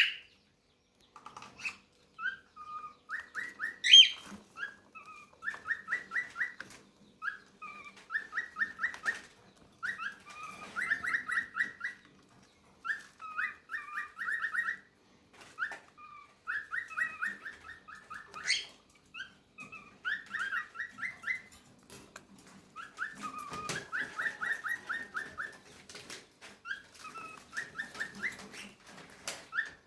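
Baby cockatiels begging to be fed: bursts of rapid, rhythmic pulsed chirps, each about a second long, repeating every second or two, with scattered clicks between them.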